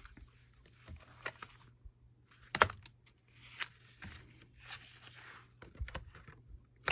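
Paper and card rustling as they are handled, with a few sharp clicks of a corner-rounder punch cutting the corners. The loudest click comes about two and a half seconds in.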